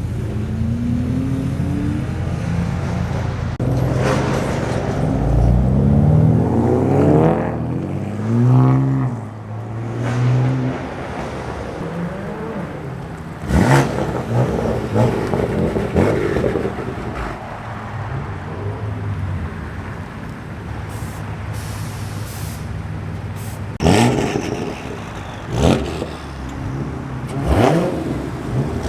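Car engines revving, rising and falling in pitch over the first ten seconds, over a steady low engine drone, with four sharp cracks later on.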